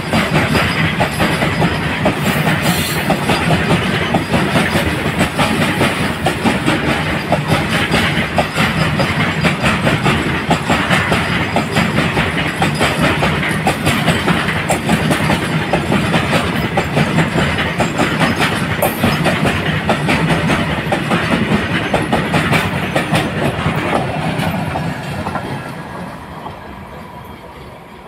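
Loaded open freight wagons of a coal train rolling past close by, their wheels clattering over the rail joints in a dense, steady run of clicks. The sound fades away near the end as the last wagon and brake van move off.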